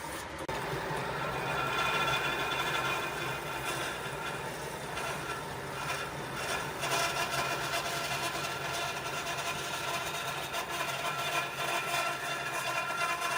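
A workshop machine running steadily with a whining hum.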